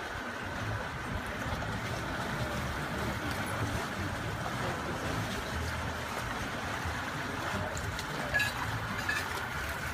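Steady seaside ambience: sea water washing against the ironshore, with wind rumbling on the microphone. A short sharp click stands out about eight seconds in.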